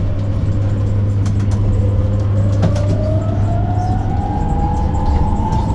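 Electric bus traction motor whine heard from inside the cabin, over a steady low hum. The whine falls in pitch for about two seconds as the bus slows, then rises steadily as it picks up speed again.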